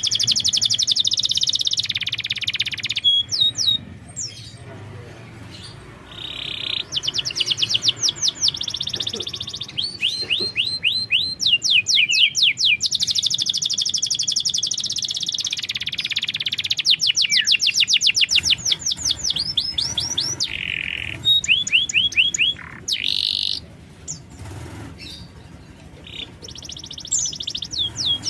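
Domestic canary singing in high-pitched phrases of fast trills, each a few seconds long: runs of rapidly repeated notes alternate with dense warbling, with short pauses between phrases.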